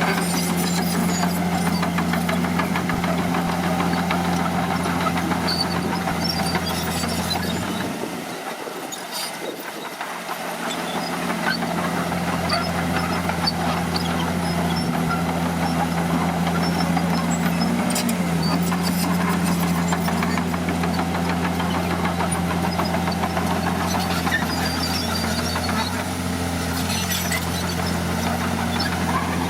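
Diesel engine of heavy earthmoving equipment running steadily with a deep, even drone. It dips briefly about a third of the way through, then returns.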